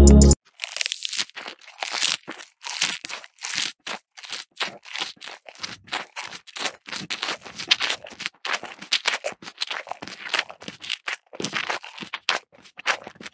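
Cattle munching fresh green grass: a steady run of short, irregular crunching and tearing bites, about three a second.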